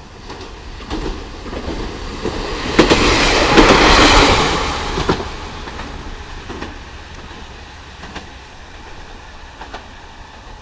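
A KiHa 40 diesel railcar passing, its wheels clacking over the rail joints. It swells to its loudest about three to five seconds in, then fades away, with single clacks still heard as it goes.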